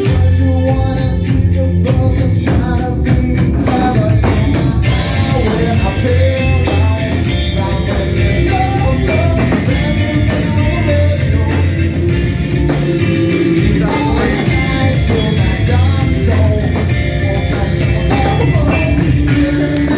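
Rock band playing live: loud drum kit and electric guitar with a vocalist singing.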